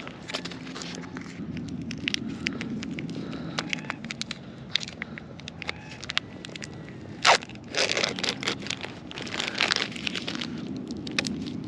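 Scattered sharp clicks and taps with bursts of rustling and scraping as gear and a fish are handled on a plastic kayak, with one loud click about seven seconds in.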